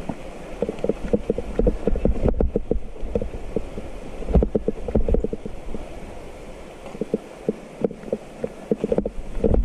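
Mountain bike rattling and knocking over rough, stony trail in a quick irregular patter, with wind rumble on the microphone.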